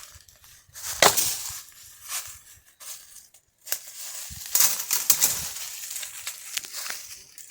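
Dry firewood branches and brush being handled and broken: irregular crunching and crackling with sharp snaps, the loudest about a second in, and a dense run of crackling a little past the middle.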